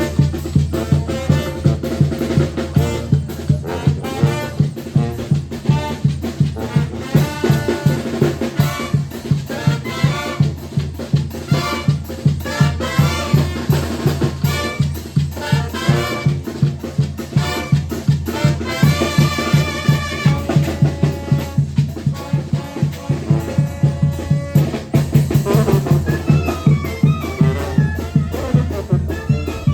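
Brass band music, with trumpets over drums keeping a steady beat.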